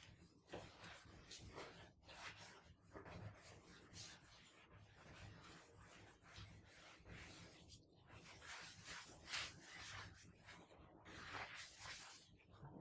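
Faint scrubbing: a run of irregular rubbing strokes against a hard surface, several a second.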